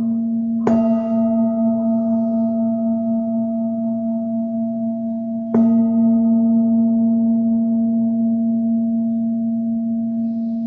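Singing bowl struck twice, about five seconds apart, each strike bringing up a bright ring over a sustained low hum that pulses with a slow wobble and fades gradually.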